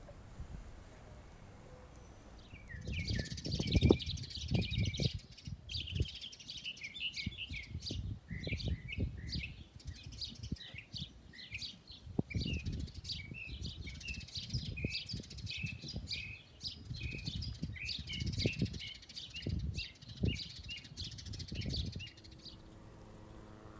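Small birds chirping and twittering in quick, overlapping runs of short, falling notes, starting about three seconds in and stopping shortly before the end. Irregular low rumbles on the microphone run underneath.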